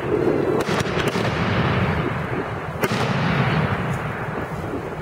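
Aerial fireworks going off: several sharp bangs about half a second to a second in and a louder one near three seconds, over continuous crackling that fades toward the end.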